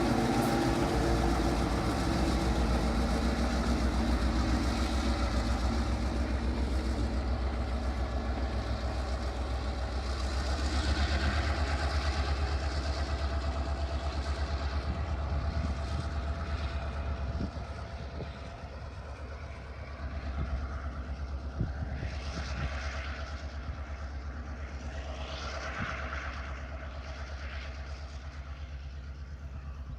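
EMD GP9R diesel locomotive's 16-cylinder 567 engine running under load as it hauls the train, slowly fading as it moves off, with a drop in level about halfway through.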